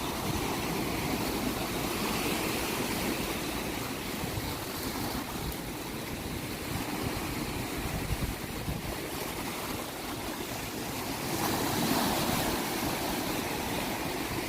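Ocean surf: a steady wash of waves, swelling a little louder near the end.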